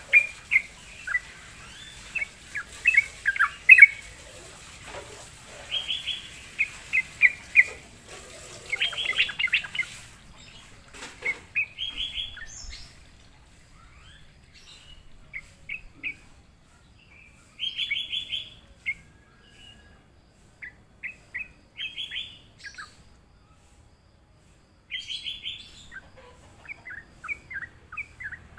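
Sooty-headed bulbul singing: short, bubbly phrases of quick rising and falling notes, repeated with pauses of a second or more between them.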